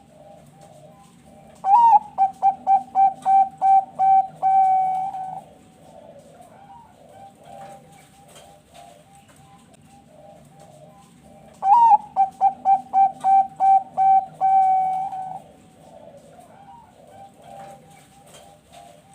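Zebra dove (perkutut bangkok) singing two song phrases about ten seconds apart. Each phrase is a rising-and-falling opening note, a quick run of about eight short coos, and a longer held final coo. Fainter coos sound in the gaps.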